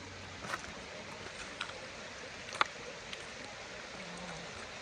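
Rainforest stream running over rocks, a steady rushing, with a few light knocks and one sharp click just past halfway through.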